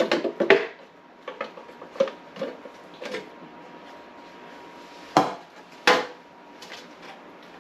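Hard plastic clicks and knocks of a refrigerator's interior panel being unclipped and handled. A quick cluster of sharp clicks comes at the start, then scattered lighter taps, then two louder knocks about five and six seconds in.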